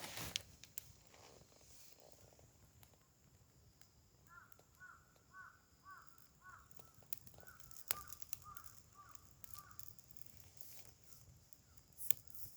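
A bird calling outdoors in a series of about a dozen short, hooked notes, roughly three a second, lasting several seconds. A few sharp clicks come in between.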